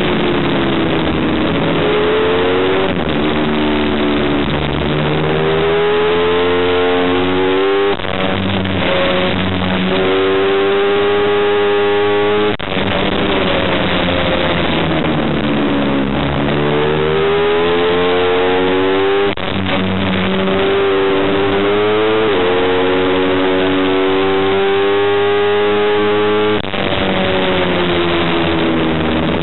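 Racing motorcycle engine heard onboard at full load on a circuit lap, its pitch climbing steadily through each gear and sweeping down when braking into corners. There are brief, sudden breaks in the sound on gear changes, about four times.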